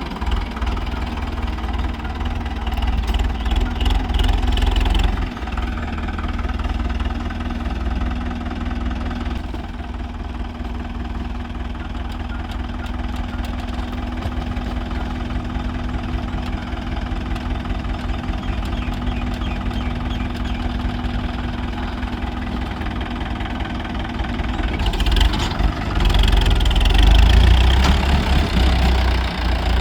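Powertrac Euro 55 tractor's diesel engine running steadily while hauling a loaded trolley. It is louder in the first five seconds and again near the end.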